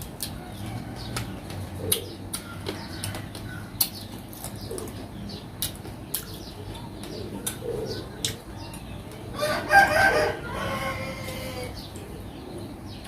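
Eating sounds from pickled crab: a run of sharp clicks and cracks from shell being broken and picked at, with sucking and chewing. About nine and a half seconds in there is a short, louder pitched call lasting about a second.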